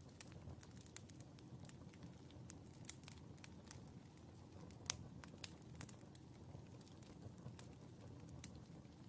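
Wood fire crackling in a fireplace: scattered sharp pops and ticks over a low steady rumble, with one louder pop about five seconds in.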